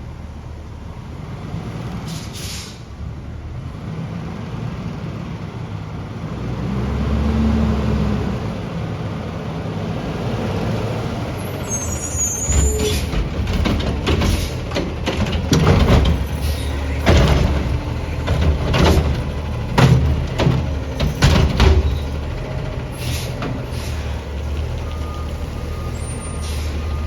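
Garbage truck's diesel engine running, with a short air-brake hiss early and the engine revving up about seven seconds in. From about twelve seconds in there are roughly ten seconds of repeated loud bangs and clanks, then the engine runs steadily again.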